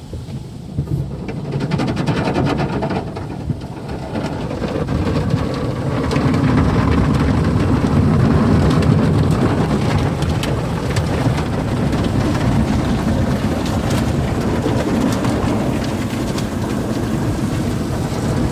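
Car wash water spray pattering and drumming on the body of a Chevy Avalanche pickup, heard from inside the cab. It swells about a second in and grows louder again around six seconds in.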